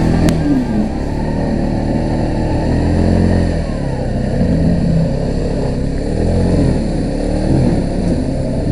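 Quad bike (ATV) engine running, its pitch rising and falling as the throttle is worked.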